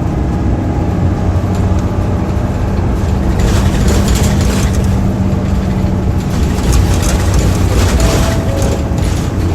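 Hino Blue Ribbon II city bus with a turbocharged diesel engine, running under way. A steady low engine hum carries a tone that fades about two-thirds of the way through, with a rushing noise rising over it from a few seconds in.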